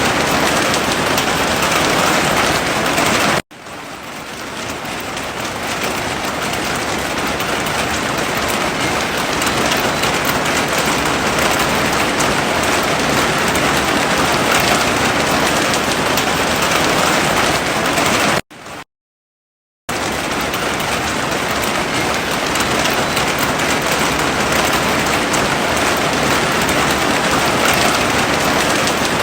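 Heavy rain falling in a steady, even hiss. It cuts out abruptly a few seconds in and swells back over a few seconds, then drops out completely for about a second about two-thirds of the way through before resuming.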